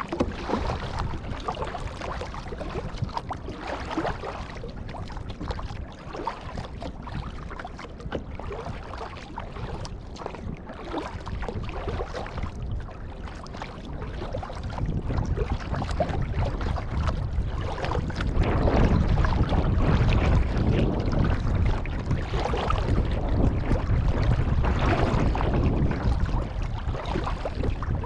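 Kayak paddle strokes dipping and splashing in the water as the boat moves along, with wind buffeting the microphone that grows into a low rumble about halfway through.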